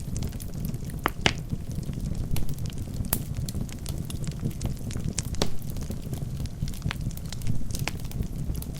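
Wood logs burning in a fireplace: a steady low rumble of flames under frequent crackles and a few sharper pops.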